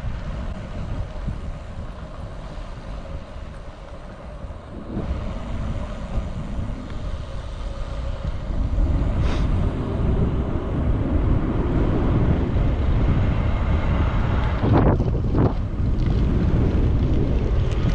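Wind buffeting the microphone of a camera carried on a moving road bike, a low rumbling rush that grows louder about halfway through as speed picks up, with a couple of brief gusts or knocks near the end.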